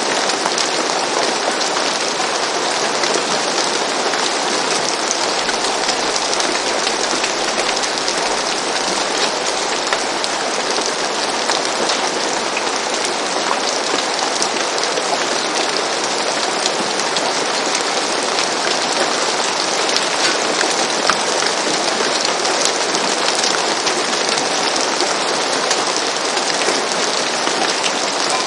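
Steady rain falling on a roof, a dense even patter with many fine individual drop ticks.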